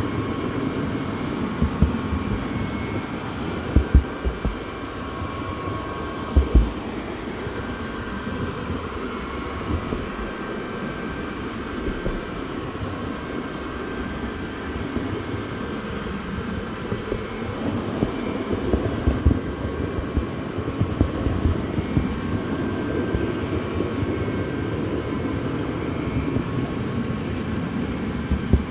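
Moving train heard from on board: a steady rumble with irregular low knocks.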